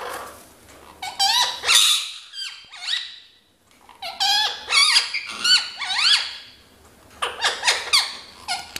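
Ringneck parrot calling in three bouts of quick, shrill, rising screeches.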